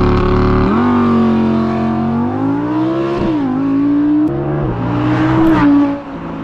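Audi R8 V10 Plus's naturally aspirated 5.2-litre V10 accelerating hard through the gears: the engine pitch climbs steadily and drops abruptly at each upshift, three shifts roughly two and a half seconds apart.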